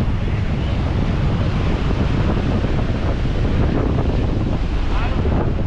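Steady wind buffeting the microphone, over the wash of the sea.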